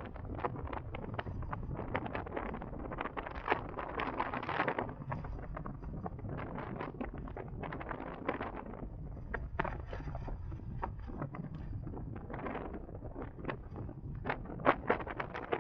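Wind buffeting the microphone on a moving electric motorcycle, a 2023 CSC Zongshen RX1e: a steady low rumble under irregular crackling pops that come in heavier gusts now and then.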